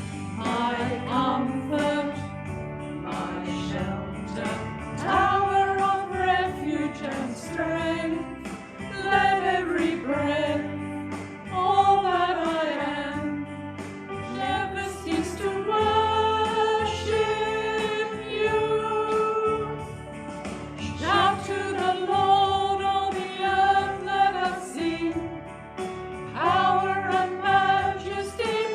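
A hymn sung by a small group of singers, with held notes and a moving melody, over instrumental accompaniment.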